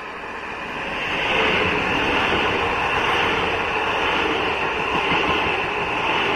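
Pesa Dart ED161 electric multiple unit passing at close range: its sound swells over the first second or so, then holds as a steady rush of wheels and running gear on the rails.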